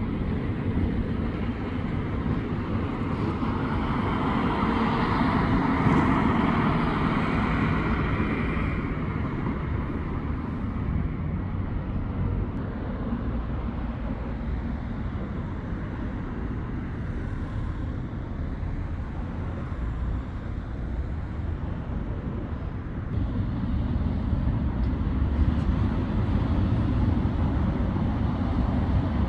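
Road traffic passing: a steady low rumble of engines and tyres, with a louder vehicle going by a few seconds in and traffic building again near the end.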